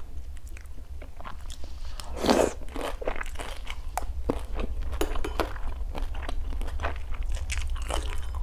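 Close-miked chewing and crunching of crispy pan-fried rice-flour cake (bột chiên) with pickled papaya: many short crunches, with one louder bite about two seconds in.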